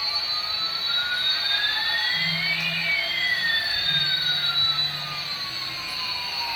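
Electronic jet-engine sound effect: a steady hiss with two whistling tones sweeping in opposite directions, one rising and one falling, crossing about halfway through.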